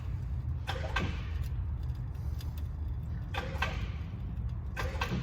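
Steady low engine rumble with short bursts of metallic clinking and rattling about a second in, near three and a half seconds and near the end.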